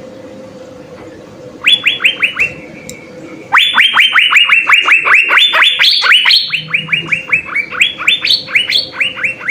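Asian fairy-bluebird singing. About a second and a half in comes a short run of quick downward-sliding notes. From about three and a half seconds on, a long, fast series of the same sliding notes follows, several a second.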